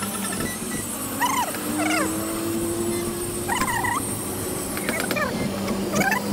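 An animal, most like a dog, whining in a few short calls that rise and fall in pitch, over a steady low hum.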